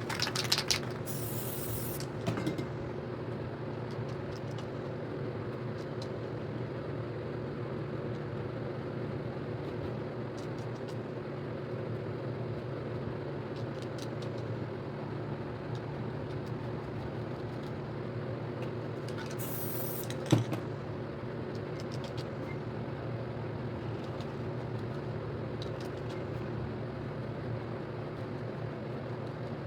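An aerosol spray paint can hisses in two short bursts, about a second in and again about twenty seconds in. The second burst ends in a sharp click. A steady low hum runs underneath.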